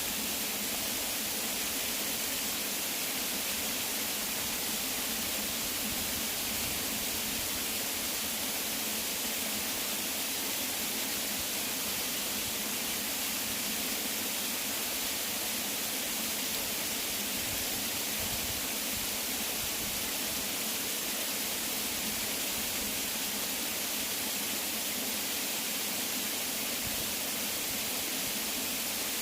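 Waterfall: a steady, even rush of falling water that never changes in level.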